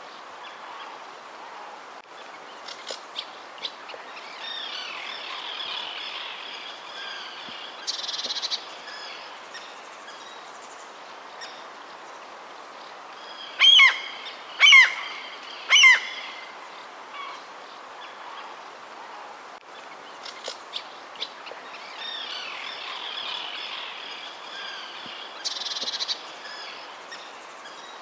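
Wild birds chirping and calling over a faint steady background hiss, with three loud, sharply falling calls in quick succession about halfway through.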